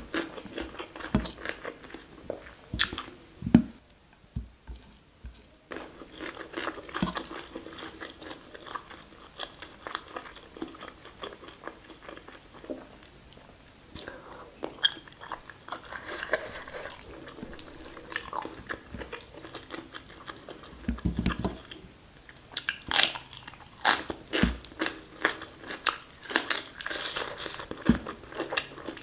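Close-miked chewing and mouth sounds of someone eating mutton curry and basmati rice by hand, a steady run of irregular clicks and crunches with a short lull about four seconds in.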